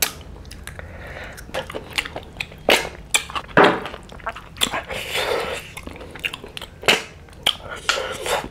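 Close-miked chewing and wet mouth sounds of a person eating snail curry and rice by hand. Many sharp clicks and smacks come at irregular intervals.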